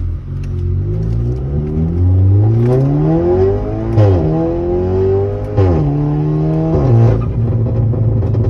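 Volkswagen Polo 6C's engine through a loud aftermarket exhaust, revving up over about three seconds and then falling sharply in pitch with a loud burst, followed by two more quick drops in pitch and bursts before it settles to a steady drone.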